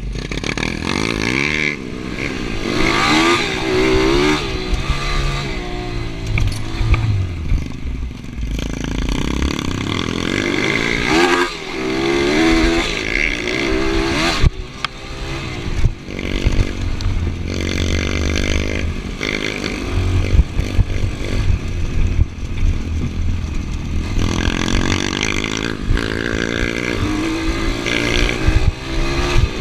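Motorcycle engine revving through the gears, its pitch climbing and dropping again and again, with scattered clicks and clatter.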